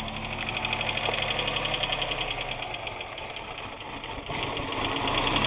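Pontiac Grand Am GT V6 running roughly, barely holding an idle, with a fast, steady knocking; the owner takes the knock for rod knock and the engine is misfiring. It picks up and gets louder about four seconds in.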